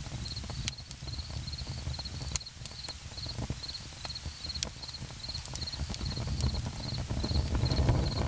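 Campfire crackling, with scattered sharp pops over a low rumble. An insect chirps steadily in short pulsed trills, about two a second.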